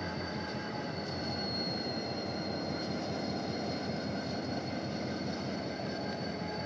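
Rail maintenance train moving along the track: a steady rumble from its running gear and engine, with a high-pitched whine held over it.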